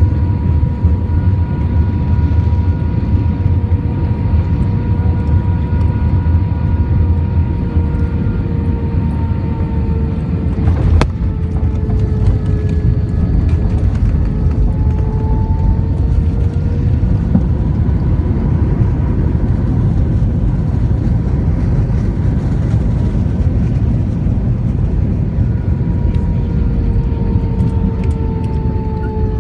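Cabin noise inside an Airbus A320 landing: a loud, steady jet-engine and airflow rumble with two whining engine tones that slowly drift up and down in pitch. A single sharp click about eleven seconds in.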